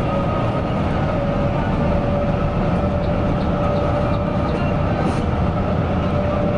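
Mercedes-Benz OC 500 RF 2542 coach running steadily on the road: a constant low engine and road rumble with a faint steady whine over it.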